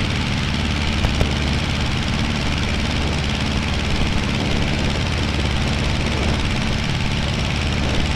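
Aeronca 7AC Champ's four-cylinder air-cooled engine and propeller running steadily at climb power just after takeoff, with a couple of faint clicks about a second in.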